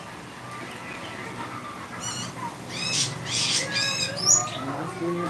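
Small songbird chirping: a quick run of short, high, falling notes starting about two seconds in and fading near the end.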